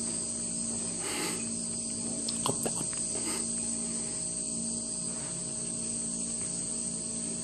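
Steady high-pitched drone over a low steady hum, with a few soft clicks and rustles about one and two and a half seconds in.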